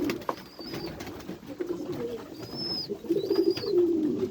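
White high-flyer pigeons cooing, low rolling coos in several overlapping bouts, with a few short high thin notes above them.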